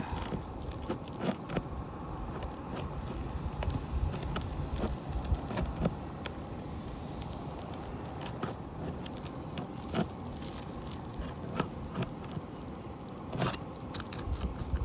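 Metal roofing tool clicking and scraping against asphalt shingles and nails as a shingle is pried loose, with irregular small clicks throughout and a few sharper knocks near the end, over a low rumble.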